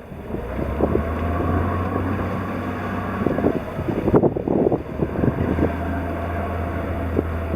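Boom boat engine running steadily on the water, a low drone with a steady whine, while wind gusts buffet the microphone.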